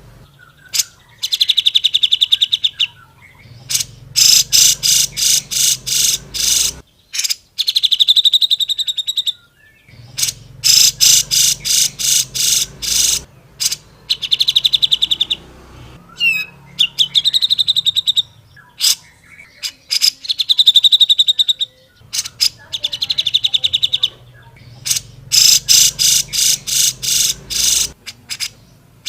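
Cucak jenggot (brown-cheeked bulbul) singing loudly in fast chattering trills. The bursts of rapidly repeated notes last one to three seconds each, with short pauses between them.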